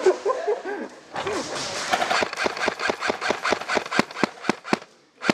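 Airsoft rifle firing a rapid string of single shots, about four a second, the last few the loudest.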